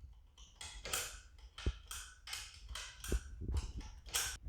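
Hand wrench working a 5/16 screw into a garage door opener's gear assembly a bit at a time, making a run of short, uneven metal clicks and taps, roughly two a second, as the wrench is turned and reset on the screw head.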